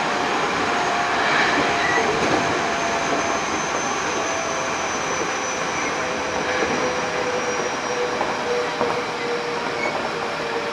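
Hankyu 8000 series electric train with Toshiba GTO-VVVF control, running and heard from inside the passenger car: steady wheel-and-rail noise with faint tones that slowly fall in pitch.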